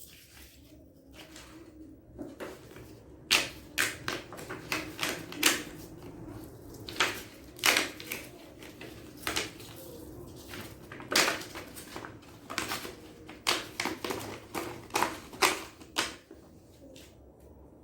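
Pre-cut cardboard pieces being pressed out of a perforated sheet by hand: irregular sharp snaps and crackling tears.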